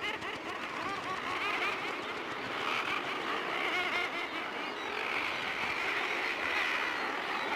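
A murre breeding colony on a cliff: a dense chorus of many adult murres calling over one another in harsh, wavering cries.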